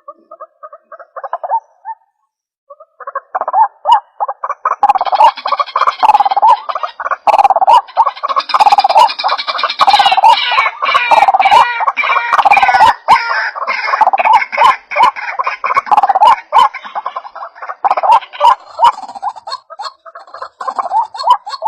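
White-breasted waterhen (ruak-ruak) calling: rapid repeated notes that start sparse, pause briefly, then from about three seconds in become a dense, continuous run of overlapping calls.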